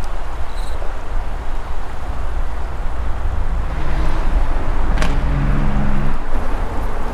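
Strong wind buffeting the microphone in a blizzard, a steady heavy low rumble. A sharp click comes about five seconds in, with a brief low hum around it.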